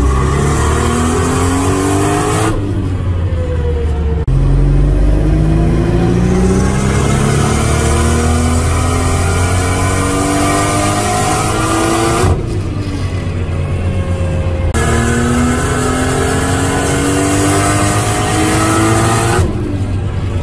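Turbocharged Nissan RB25 straight-six in a Silvia S14 making full-throttle pulls on a chassis dyno: the engine note climbs steadily under load, then falls away as the throttle closes. This happens three times, the middle pull the longest. These are the first fuelling runs, checking mixture and boost.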